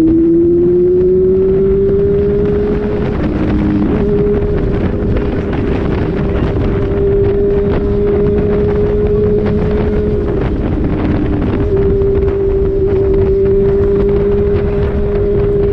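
Honda Hornet motorcycle engine running under way, its pitch rising over the first couple of seconds and then holding steady at cruise, with brief dips a few seconds in and past the middle. Heavy wind noise on the microphone.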